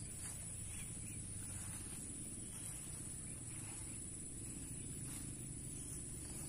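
Insects droning in one steady high note, over a constant low rumble.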